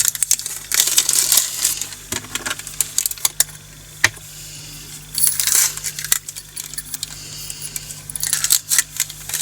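Tiny diamond-painting drills pouring and rattling into a storage container: three bursts of dense clicking with single clicks between.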